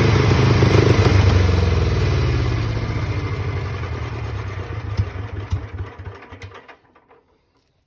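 1959 Ulyanovets engine running, then slowing down with a few knocks and coming to a stop about seven seconds in.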